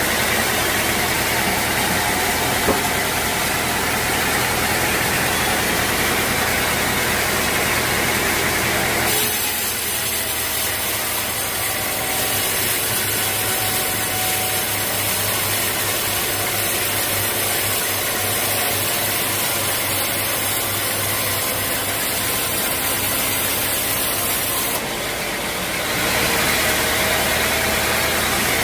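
Sawmill machinery running steadily, a loud even mechanical hum. Its tone changes abruptly about nine seconds in and again near the end.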